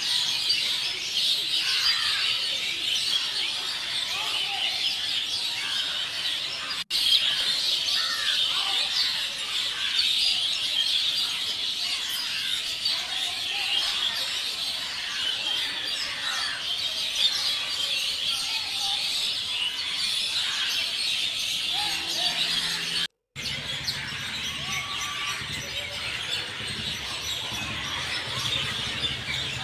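A dense chorus of many small birds chirping and twittering continuously, broken by two brief silences, about seven seconds in and again near the 23-second mark.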